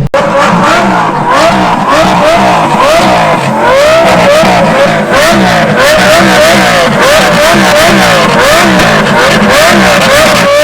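A high-performance car engine revved over and over, its pitch climbing and falling back in quick, even blips about one and a half times a second, very loud and close.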